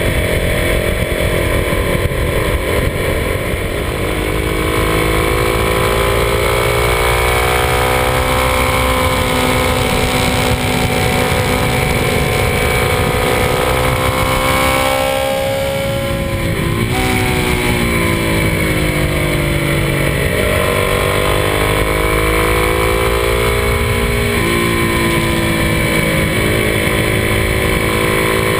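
Kawasaki D-Tracker 250's single-cylinder four-stroke engine running at road speed through a series of bends, its pitch climbing and dropping with throttle and gear changes, with a marked dip about halfway through. Wind rumble on the handlebar-mounted camera runs underneath.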